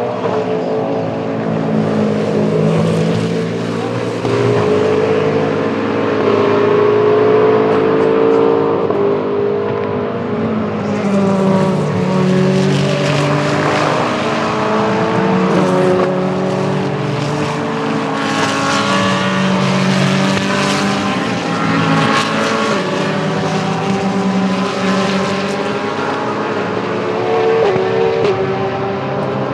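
Several race cars of a mixed sports-prototype and GT field running at speed past the track, with overlapping engine notes rising and falling in pitch as they accelerate, shift and go by.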